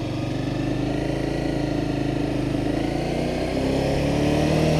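Honda CBR300R's single-cylinder engine running under way in gear, holding a steady note, then rising slowly in pitch over the last second or so as it gathers revs.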